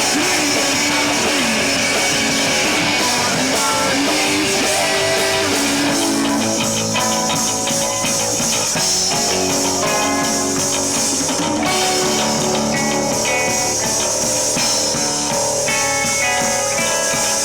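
Live rock band playing an instrumental passage on electric guitar, bass and drum kit, the drums and cymbals growing busier about six seconds in.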